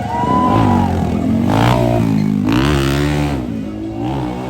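Motorcycle engine revved twice, rising and falling in pitch: a short blip, then a longer rev that drops back to idle.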